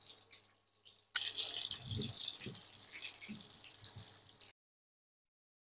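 Potato pieces frying in hot mustard oil with a faint sizzle and crackle, which gets louder about a second in. A few soft scrapes and knocks of a silicone spatula turning them follow. The sound cuts off suddenly about a second before the end.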